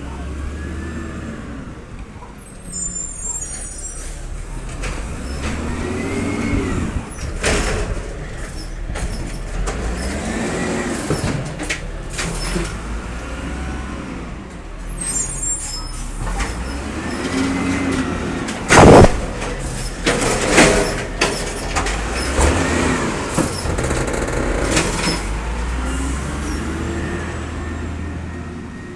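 Garbage truck at work: its engine revs up and falls back again and again as it drives the hydraulics, with scattered knocks and one loud bang about 19 seconds in.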